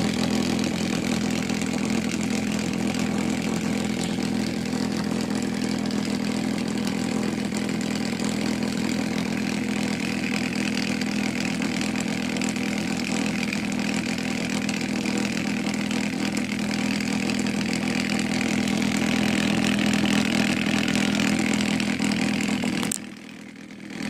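Bedini-style pulse motor driving a washing-machine pump rotor, running steadily with a constant pitched hum. It cuts off suddenly about a second before the end.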